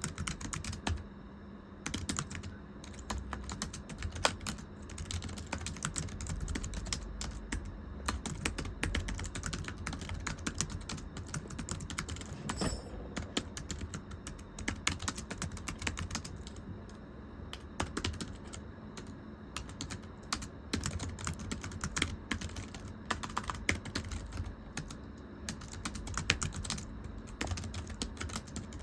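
Continuous typing on a very thin, low-profile computer keyboard: quick, irregular, light flat clicking keystrokes with a few brief pauses.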